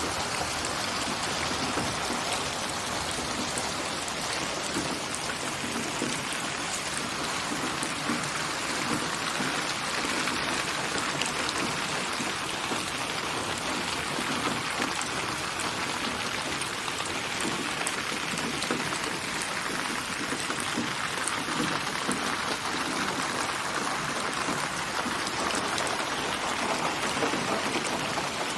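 Steady rain falling on surfaces, a continuous hiss of many drops with scattered individual drip ticks, built from layered rain samples and panned around the listener (8D binaural mix).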